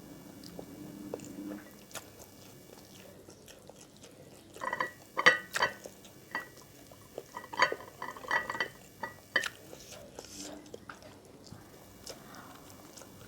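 A person eating close to the microphone: chewing and crunching, with a cluster of short crisp crunches and clicks in the middle stretch.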